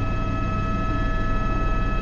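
Airbus H125 (AS350 B3) helicopter in flight, its single turboshaft engine and rotors running steadily: a constant high whine over a low rumble.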